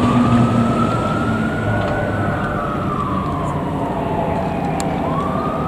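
Fire engine siren on a 2022 Spartan/Toyne pumper, wailing: the pitch climbs, sweeps slowly down for about three seconds, then starts climbing again near the end. The truck's engine rumbles underneath, clearest in the first couple of seconds.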